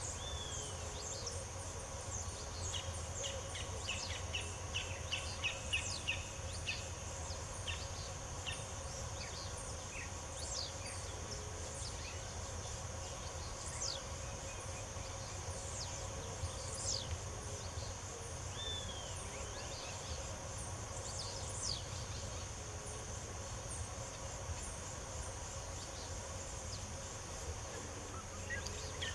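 Wild birds chirping and calling at intervals, with a quick run of repeated short notes a few seconds in, over a steady high insect buzz and a low background rumble.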